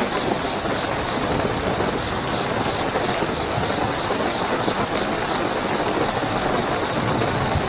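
Steady heavy rainfall with scattered drop ticks, under a continuous high, even trill of night crickets.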